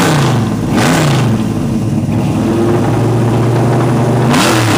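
Big-block Chevrolet V8, thought to be a 572 cubic inch, being blipped: three quick revs that fall back each time, one at the start, one about a second in and one near the end, with a steady lumpy idle between them.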